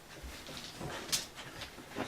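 Faint scuffling and rustling as a coyote worries at a pet bed, with a sharper tick about a second in.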